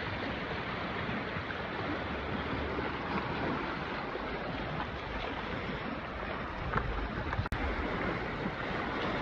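Lake Michigan waves breaking against a pier, a steady rushing wash mixed with wind blowing on the microphone.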